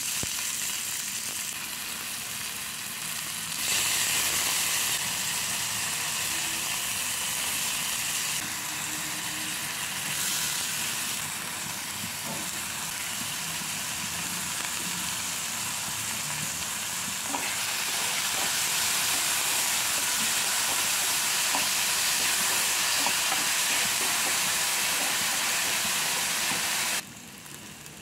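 Chopped onion and then diced vegetables sizzling as they fry in hot oil in an aluminium frying pan, a steady hiss with a few light clicks. The sizzle starts abruptly, grows louder about four seconds in and again past the middle, and drops off suddenly about a second before the end.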